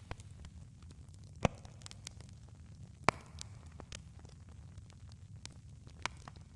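Campfire crackling: scattered sharp pops and snaps of burning wood, two louder pops about a second and a half and three seconds in, over a steady low rumble of the fire.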